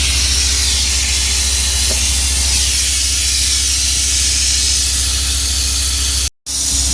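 Compressed air hissing steadily from a leaking 30/30 air brake chamber with the service brake held applied; the leak is at a band clamp that has been folded back, likely by a rock strike. A steady low hum runs underneath, and the sound drops out briefly near the end.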